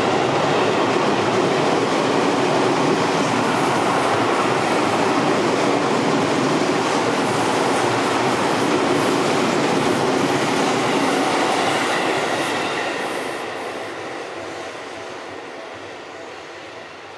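Seibu Railway electric train running close by, a steady loud rumble of wheels on rail with some clatter over the rail joints, fading away over the last few seconds.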